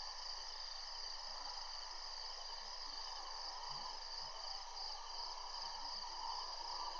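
Steady evening chorus of insects, crickets trilling at several high pitches at once, one of them pulsing rapidly, over a soft hiss.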